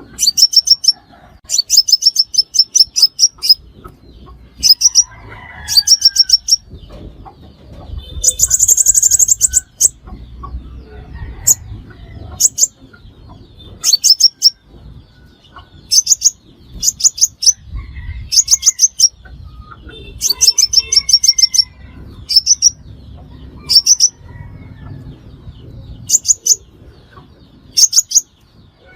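Sunbird calling: short, rapid, high-pitched chipping trills repeated every second or two, with a longer, harsher phrase about a third of the way in. It is a decoy bird's call used to lure sunbirds.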